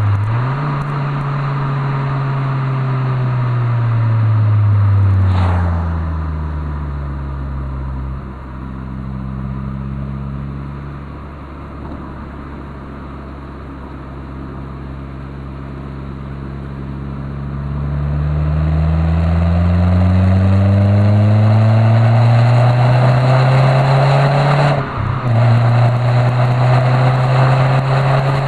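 Renault Clio III 1.6 16-valve four-cylinder engine heard through a Supersprint aftermarket centre pipe and rear exhaust. The revs fall steadily for about eight seconds and hold low for several seconds. They then climb again for about seven seconds, break off briefly near the end, and carry on high.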